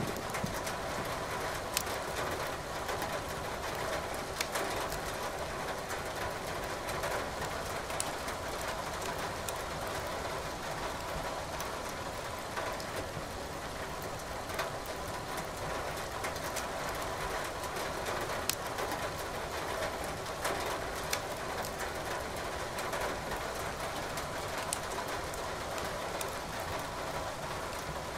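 Steady rain mixed with a wood fire crackling in a fireplace, with sharp pops from the burning logs every few seconds.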